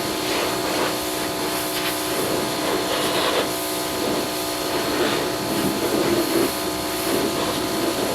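Small pressure washer running steadily: the motor and pump hum at an even pitch over the hiss of the water spray, which swells now and then as the jet moves.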